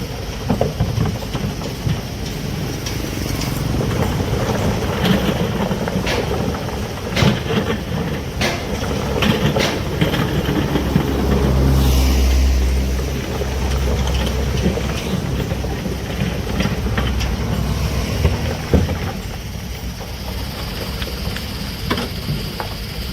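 Heavy diesel excavator working: the engine runs steadily and swells louder under load about halfway through, with scattered metallic knocks and clanks.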